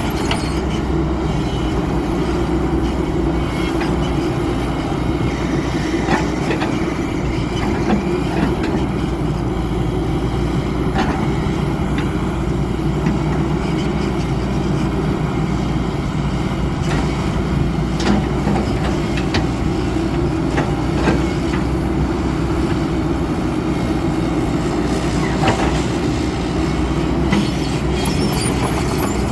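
XCMG 140 excavator's Cummins diesel engine running steadily, with occasional light knocks scattered through.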